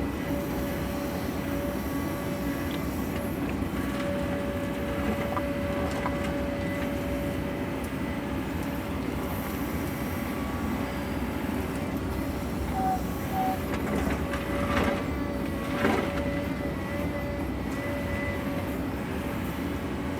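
Sany excavator's diesel engine running steadily at working speed with a steady whine, and two sharp knocks about three quarters of the way through.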